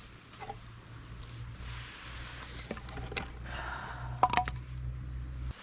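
Food bubbling and simmering in a pan over the heat, with a few light clicks and a scrape. A low steady hum underneath stops abruptly near the end.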